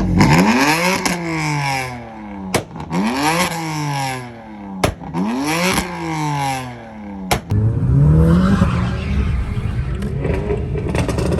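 A car engine revved hard over and over, each time rising quickly in pitch and then falling away, with a sharp crack between revs. A last rev climbs near the end.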